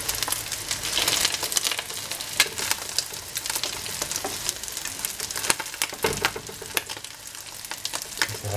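Rice-and-egg fritters sizzling in hot oil in a terracotta cazuela, a steady hiss with frequent sharp pops, while a spatula and knife push and turn them in the pan.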